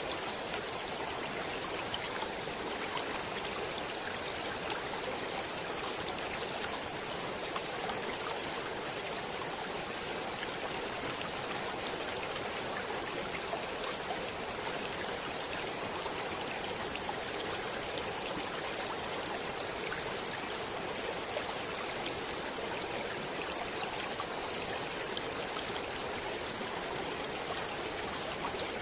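Stream water running steadily: an even, unbroken rush with no change in level.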